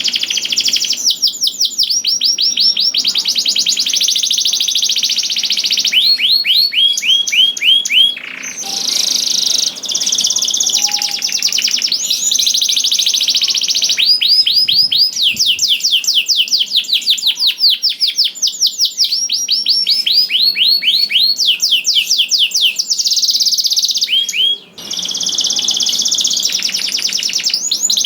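Domestic canary singing continuously: long, fast trills of repeated sweeping notes that switch to a new phrase every few seconds, with short breaks about eight seconds in and near the end.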